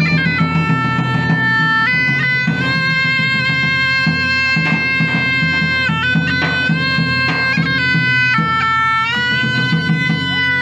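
Bagpipes playing a melody of held, stepping notes over a steady drone.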